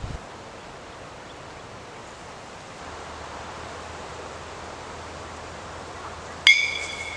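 Steady outdoor background hiss. About six and a half seconds in comes a single sharp metallic clink that rings briefly at a high pitch.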